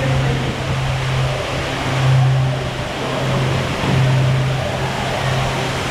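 Steady rushing water noise with a low steady hum underneath that drops out briefly a few times.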